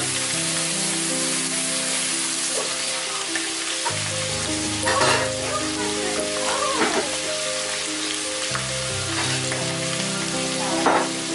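Ground beef frying in a pan: a steady sizzling hiss with a few sharp pops, the crumbles browned and nearly done. Background music of held chords plays over it, changing chord about four and eight seconds in.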